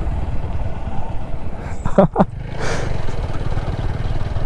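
Motorcycle riding along, its TVS Apache 4V engine and road noise making a steady low rumble, with two short pitched sounds about two seconds in.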